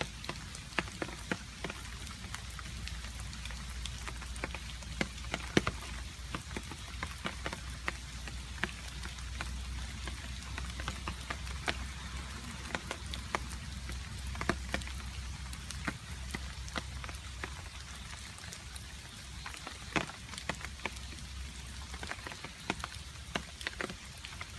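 Rain falling, with a steady hiss and many irregular sharp drips striking a surface.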